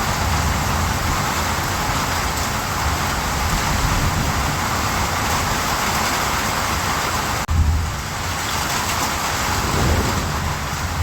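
Steady rain falling, a dense even hiss with a low rumble underneath. The sound drops out sharply for an instant about seven and a half seconds in.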